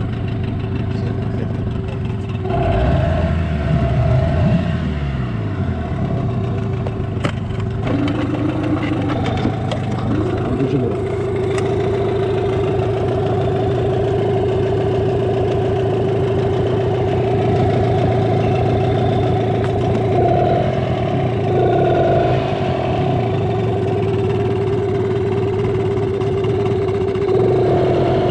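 Boat's outboard motor running, shifting speed up and down a few seconds in, then running at a steady speed.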